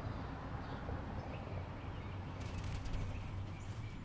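Steady low hum and hiss with a few faint, short bird chirps, and a quick run of sharp clicks or rattling about two and a half seconds in.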